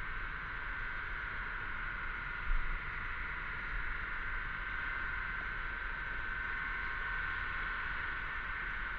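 Cicadas singing in a steady, continuous chorus, a high buzzing drone that holds at one pitch. A low rumble runs underneath, with a brief low bump about two and a half seconds in.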